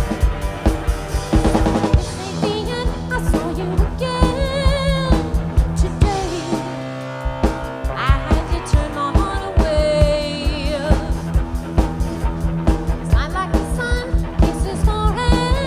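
Live rock band playing an instrumental passage: a drum kit keeps a steady, busy beat under sustained chords and a wavering, bending lead line.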